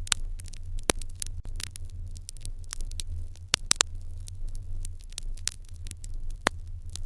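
Fire in an irori hearth crackling, with irregular sharp pops over a steady low rumble. The louder pops come about a second in, as a quick pair a little past halfway, and again near the end.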